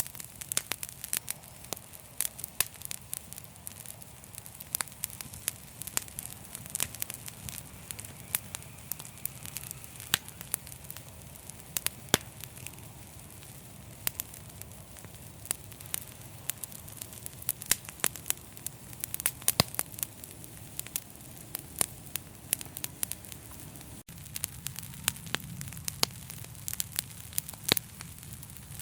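Fire burning in a fireplace: frequent, irregular sharp crackles and pops over a steady low rumble of the flames.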